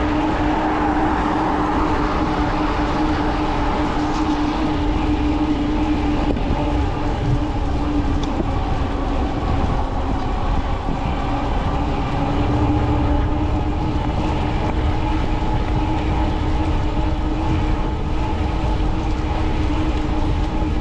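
Fat-tire e-bike riding at speed on pavement: a steady hum from the rear hub motor and tyres, with a continuous low rumble underneath.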